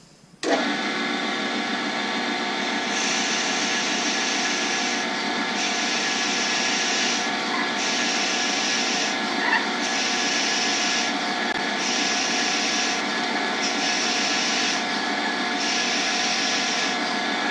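Lathe running with a Forstner bit boring into a spinning blank held at the tailstock. The motor's steady whine sits under the cutting noise, which starts about half a second in and swells and eases every couple of seconds as the bit is fed in and backed off.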